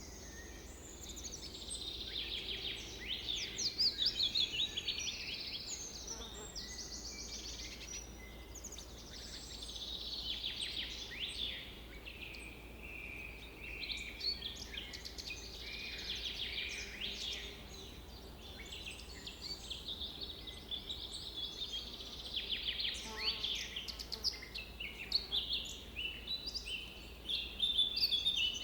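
Several songbirds singing at once, a steady stream of overlapping rapid trills and chirps that swells and eases in waves.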